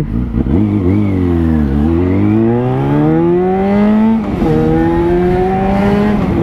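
Yamaha FZ6's 600 cc inline-four engine under hard acceleration, heard from the rider's seat. Its pitch dips, then climbs steadily for a few seconds, drops with an upshift about four seconds in, climbs again, and drops with another upshift at the end.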